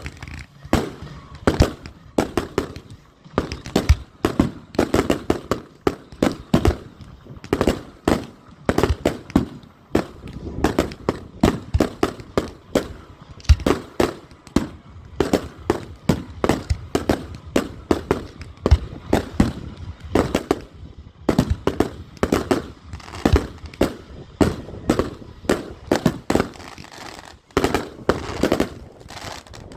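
Fireworks display: a rapid, dense series of bangs from shells and cakes going off, several a second, with short lulls only twice.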